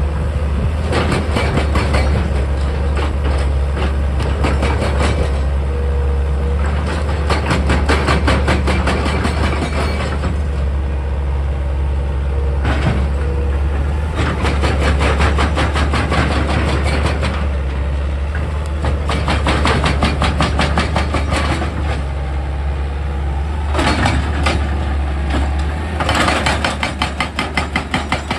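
Excavator engine humming steadily, with repeated spells of rapid hammering as its drilling attachment works into rock. The hammering comes in several runs of a few seconds each, the last one near the end with clearly separate strokes.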